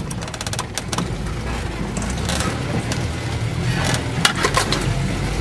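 Off-road vehicle's engine running steadily, heard from inside the cab as it drives over a rutted dirt track. The body rattles and knocks over the bumps, with a cluster of clicks in the first second and again about four seconds in.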